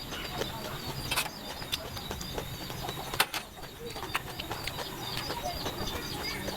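Close-up eating sounds: irregular sharp clicks and smacks of a mouth chewing food.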